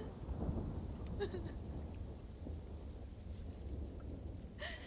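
Heavy rain pouring steadily, with a low rumble underneath. A woman's brief sobbing cries come about a second in and again near the end.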